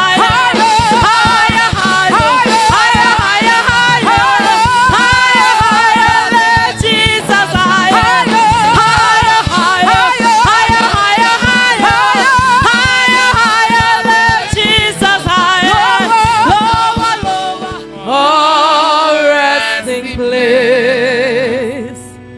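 Gospel worship music: singing over a band with a steady drum beat. About 18 seconds in, the beat drops away and the singing, with a wide vibrato, carries on alone.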